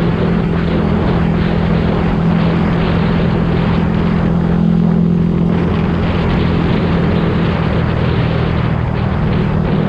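Yamaha YZF-R125's 125 cc single-cylinder four-stroke engine and exhaust running steadily, holding an even pitch with no revving up or down.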